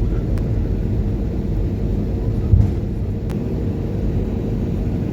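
Airliner cabin noise heard from inside the cabin: a steady low rumble of engines and airflow with a constant hum. A brief low thump comes about two and a half seconds in, with a couple of faint clicks.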